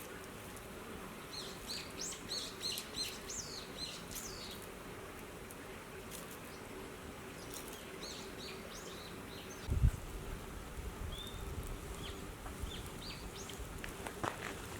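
Small birds chirping outdoors in quick runs of short, high chirps, twice, over a faint steady hum, with one low thump about ten seconds in.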